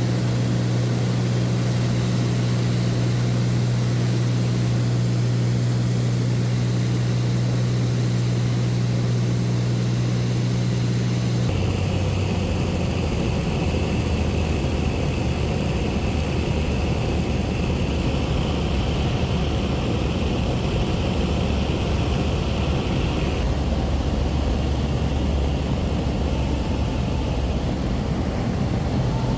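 Light propeller aircraft's engine and propeller drone heard from inside the cabin, a steady low hum with cabin noise. The pitch drops suddenly about a third of the way in, and the sound changes again about two-thirds of the way through.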